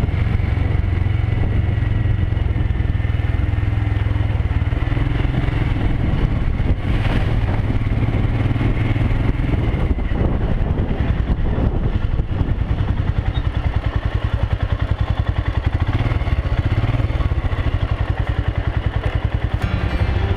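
Motorcycle engine running steadily under way, a continuous low drone with road and wind noise over it.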